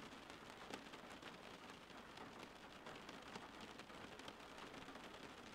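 Faint steady rain: an even hiss with many small, scattered drop ticks.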